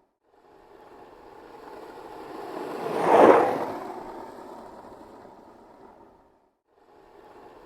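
Skateboard wheels rolling past: a rolling noise that builds from silence to a peak about three seconds in, then fades away. After a brief gap, a second pass begins building near the end.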